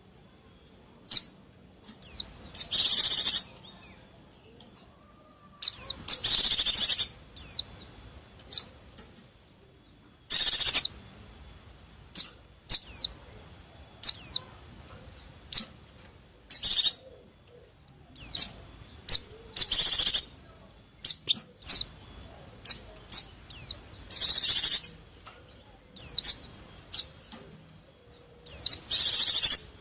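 White-eye (pleci) giving its noisy excited call, the kind used as a lure for wild white-eyes: short high chattering bursts alternating with quick falling whistle notes, repeated every second or two.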